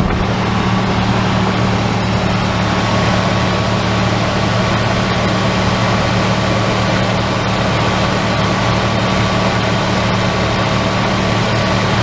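A 1994 Chevy Silverado's 5.7-litre 350 V8 running steadily at raised revs, its throttle held open by a pedal clamp during a Seafoam treatment.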